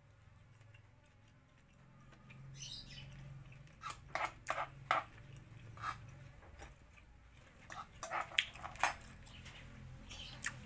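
A person chewing a bite of beef steak close to the microphone, with sharp wet mouth clicks and smacks coming in two clusters, about four seconds in and again near the end. The meat is tough and chewy.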